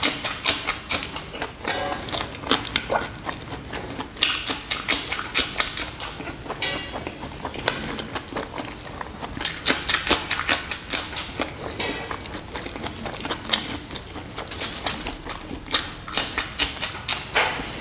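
Close-up eating sounds: a person biting raw green chillies and chewing, with many irregular crunches and wet mouth clicks.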